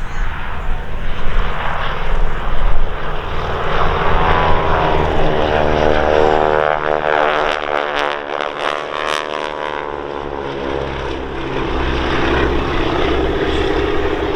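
Propeller biplane's radial engine running at display power as it flies past, its note sweeping down in pitch about halfway through.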